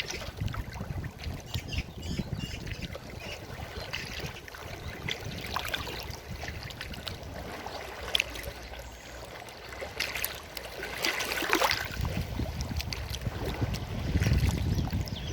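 Forest stream running over rocks: a continuous rush of water with irregular small splashes and gurgles, and a deeper rumble of water swelling in the last few seconds.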